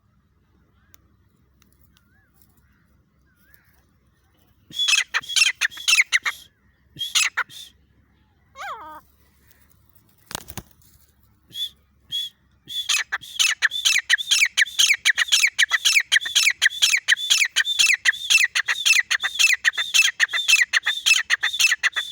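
Grey francolin calling. After a quiet start come a few short bursts of harsh repeated notes, then from a little past halfway a fast, unbroken series of notes at about four a second.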